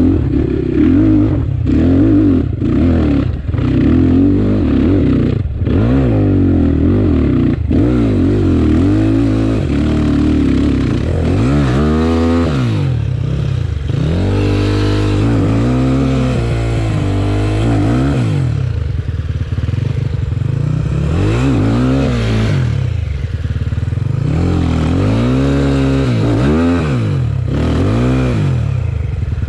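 Enduro motorcycle engine being ridden hard, its pitch rising and falling again and again as the throttle is opened and closed. There are clattering knocks through the first several seconds.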